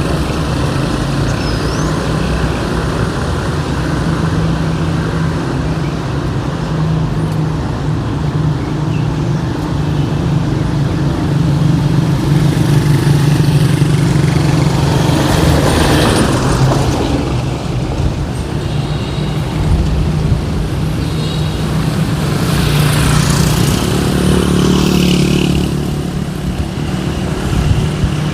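City street traffic: a steady low engine hum, with vehicles passing close about halfway through and again towards the end.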